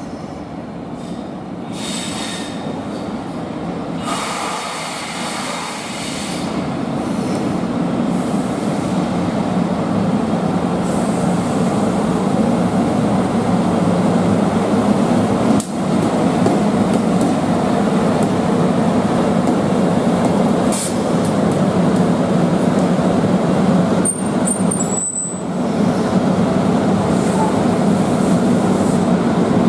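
EF64 electric locomotive hauling a train of new E235-series cars along the track: a steady rumble of wheels on rail that builds over the first several seconds, then holds. Brief high-pitched wheel squeals come about 24 seconds in.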